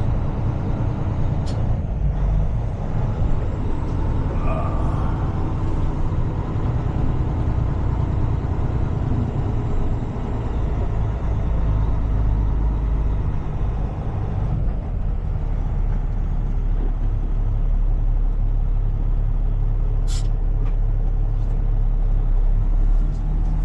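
Heavy tow truck's engine running steadily as it drives, a low rumble heard from inside the cab, with a brief hiss about twenty seconds in.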